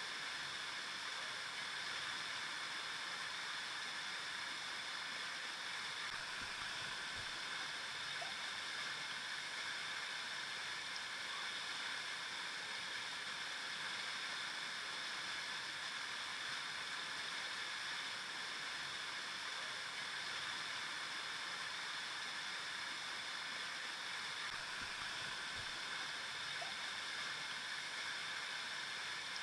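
River water flowing steadily, an even rushing sound that holds constant without pause.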